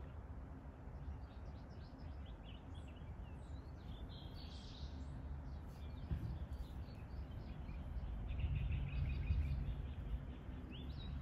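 Outdoor ambience: faint, scattered bird chirps over a low, steady rumble, with a quick run of chirps about two-thirds of the way through.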